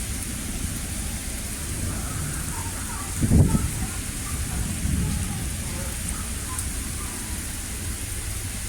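Heavy rain falling steadily during a severe thunderstorm, with a short low rumble of thunder about three seconds in and a softer one around five seconds.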